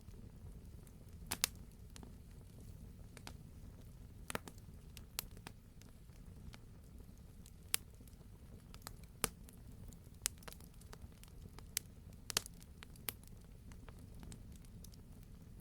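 Wood fire burning in a fireplace: a steady low rumble of the flames with scattered sharp pops and crackles from the burning wood, a dozen or so spread irregularly, a few of them louder.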